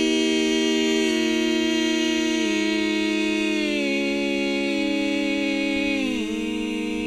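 Gospel-trio voices humming a held close-harmony chord without words. The parts step to new notes every second or so, and one voice slides down near the end.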